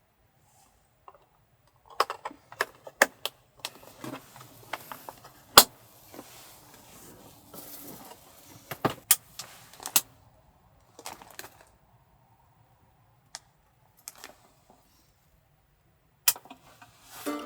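Small objects being handled and set down: an irregular string of sharp clicks and knocks with rustling. The loudest knock comes about five and a half seconds in.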